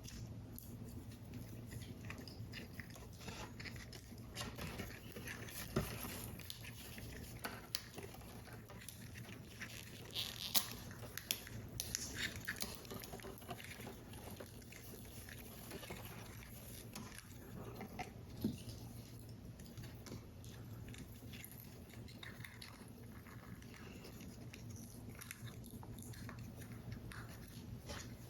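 Paper model pieces being handled and fitted together: small crinkles, rustles and soft taps of card, with a few sharper ticks, over a faint steady hum.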